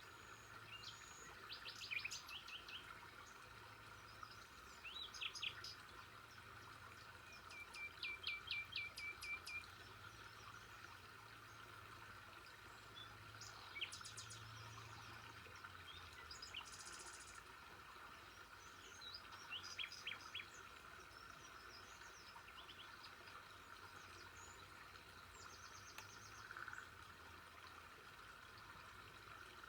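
Birds chirping and giving short rapid trills every few seconds over a steady background hum of insects.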